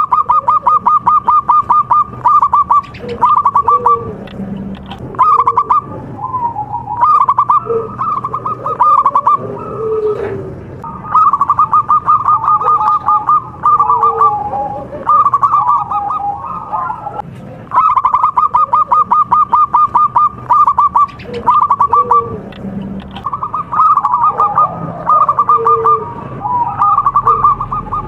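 Zebra doves (perkutut) singing: repeated bursts of rapid staccato notes, each burst a second or two long, with lower slurred coos between them.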